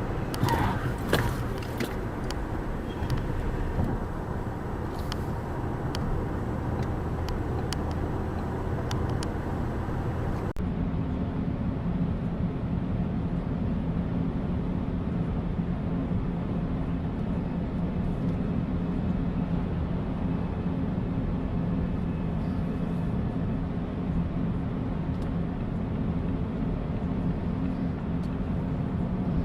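Road and engine noise of a moving car, with scattered clicks and ticks for the first ten seconds. About ten seconds in it changes abruptly to a steady low engine drone.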